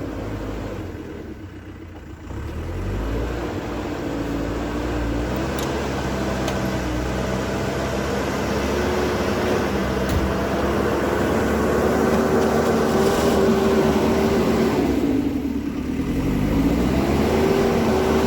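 Diesel engine of a heavy earthmoving machine working and revving under load. It eases off and then revs up about two seconds in, drops briefly near the end and climbs again.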